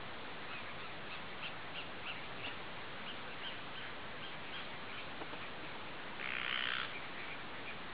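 A single harsh bird squawk lasting under a second, about six seconds in, over a steady outdoor hiss with faint short ticks about three times a second.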